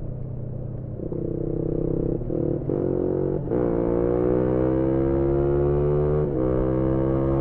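Single-cylinder engine of a 2018 Yamaha MT-125 with an aftermarket GPR exhaust, heard from on board: briefly off the throttle, then pulling hard up through the gears. Each upshift is a sudden drop in pitch, the clearest about halfway through and again near the end, followed by a slow, steady rise in pitch as the bike accelerates.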